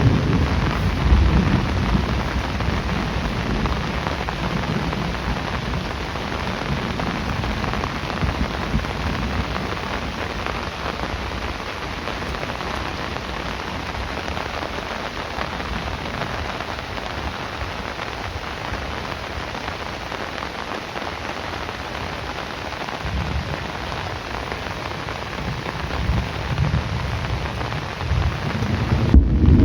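Heavy rain falling steadily, with low rolling thunder in the first few seconds that fades away, then builds again near the end.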